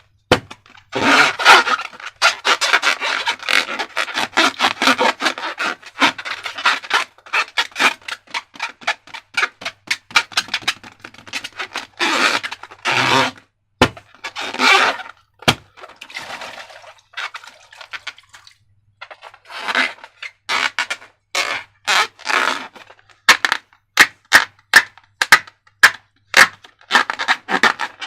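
Slime being worked by hand, a dense run of sticky crackling, rubbing and sharp clicks that comes and goes in bouts, with a short lull a little past the middle.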